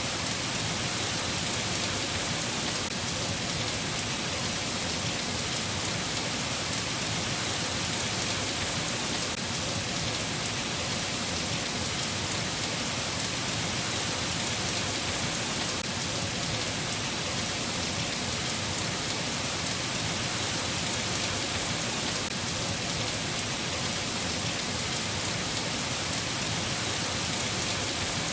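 Steady rain falling, an even hiss with no thunder or breaks.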